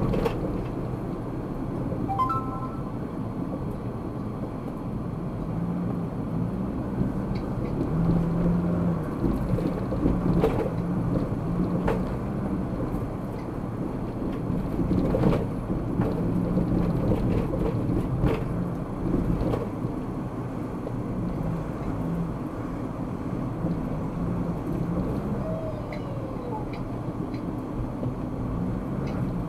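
Car driving in city traffic, heard from inside the cabin through a dashcam: steady engine and road rumble with a few light knocks, and a brief tone about two seconds in.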